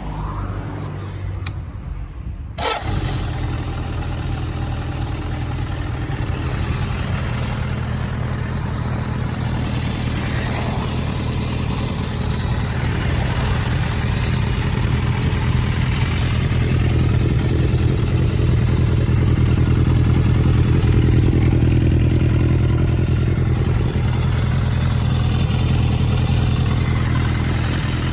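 Suzuki GSX400 Impulse motorcycle engine starting up: it catches about two and a half seconds in, then runs steadily at idle, growing a little louder in the middle.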